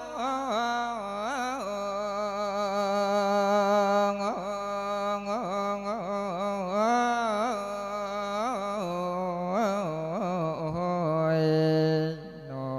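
A monk's voice chanting a long, drawn-out melodic phrase of a thet lae sung sermon, held vowels bending through wavering ornamental turns.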